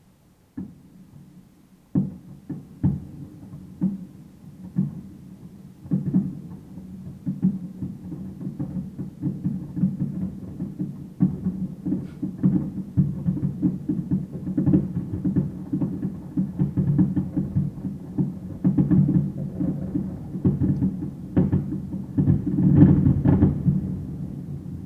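Fireworks exploding: a few separate deep bangs, then a rapid barrage of booms that grows denser and louder, peaking near the end.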